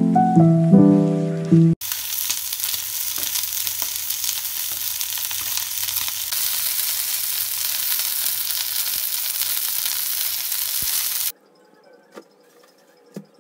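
Tuna steaks frying in oil in a pan: a steady, loud sizzle that starts abruptly about two seconds in and cuts off abruptly about eleven seconds in. Before it, a couple of seconds of piano music.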